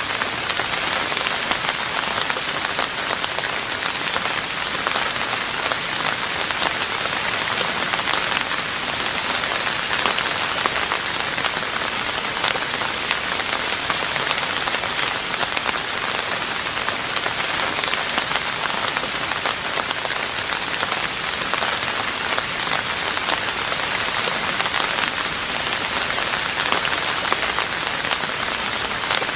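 Steady rain falling on a roof, a dense even patter of many drops without let-up.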